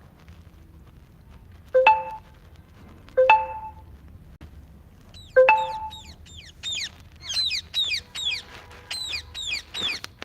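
Three sharp ringing metallic clinks, a second or two apart, then a parrot calling in a quick run of short, high calls that each slide downward.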